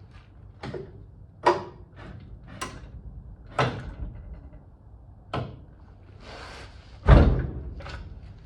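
Tools and parts knocking and clanking during work under a car, about six separate knocks. The loudest, a heavy thud, comes about seven seconds in.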